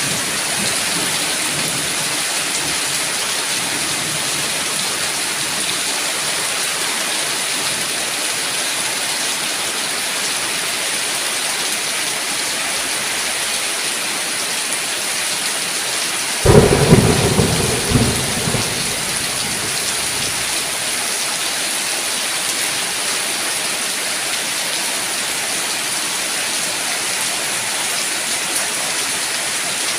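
Steady heavy rain hissing throughout, with a sudden loud thunderclap a little past the middle that rumbles away over about two seconds.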